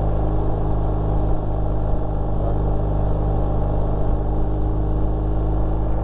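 BMW R1250 RT's boxer-twin engine running at a steady pace while riding up a gradual mountain climb, with wind and road noise.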